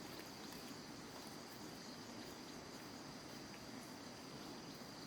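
Insects droning steadily with one even, high-pitched note, faint, over low background noise.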